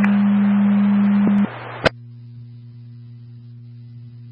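Scanner radio on an open channel between transmissions: a steady low hum with hiss that drops away about a second and a half in, a sharp click just after, then a fainter steady hum.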